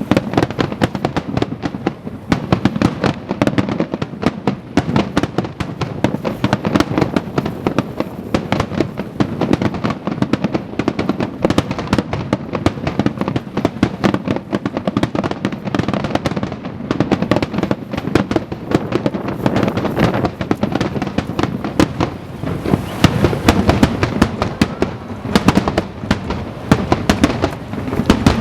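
Aerial fireworks shells bursting in a rapid, unbroken barrage: many loud bangs and crackles overlapping, with no pause between them.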